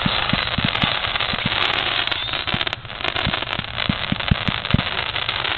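Fireworks display going off: a quick, irregular run of low booms, several a second, over a continuous rushing noise.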